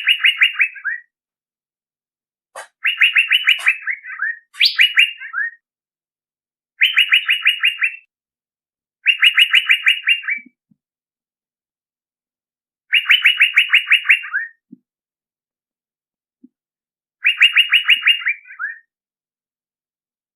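Male Asian fairy-bluebird (cucak biru) calling, played as a bird-lure recording. It repeats a short phrase of fast, clipped notes that lasts about a second and ends on a lower note, with a pause of one to four seconds between phrases.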